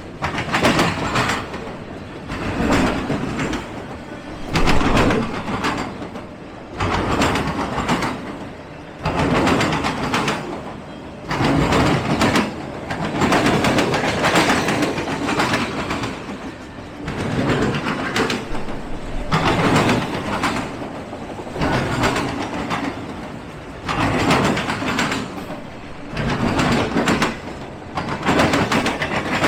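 Railroad cars rolling past on the track, their wheels clattering over the rail joints in surges that come about every two seconds.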